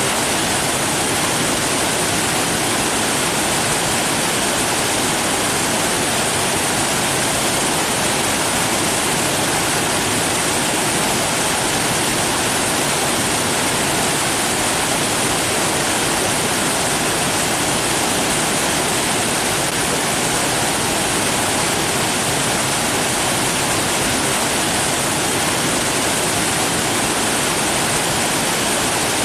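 Steady, unbroken rush of running water, loud and even throughout.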